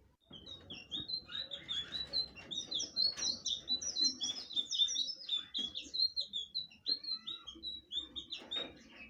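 Blue flycatcher (sikatan biru) singing a long, fast warbling song of many short, high, chirping notes. The song starts just after the beginning and fades out near the end.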